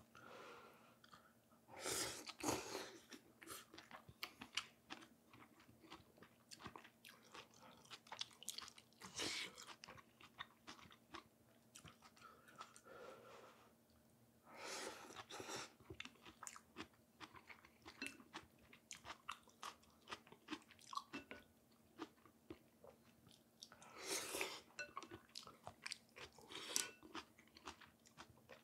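Close-miked, faint chewing and eating of pho noodles: many small wet mouth clicks, with several louder bursts of eating noise every few seconds.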